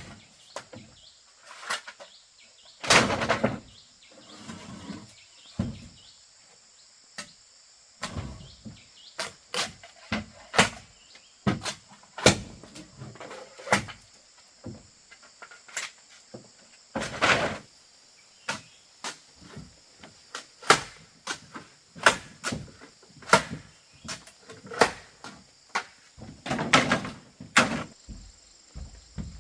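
Irregular knocks and taps of hand work on bamboo, with three heavier, longer blows spread through; insects buzz steadily behind.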